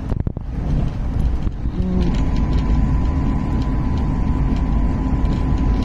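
Passenger train running at speed, heard from inside the carriage: a steady low rumble of wheels on rails, joined by a thin steady whine about two seconds in.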